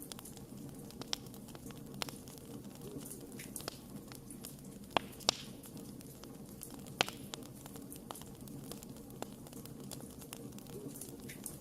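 Wood fire burning, a steady low rumble with scattered sharp crackles and pops, the loudest pair about five seconds in and another about seven seconds in.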